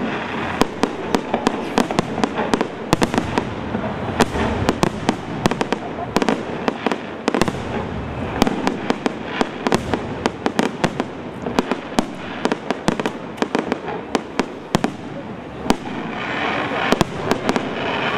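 Fireworks display: many sharp bangs in quick, irregular succession, several a second, from aerial shells and low-level bursts, over a continuous crackling wash.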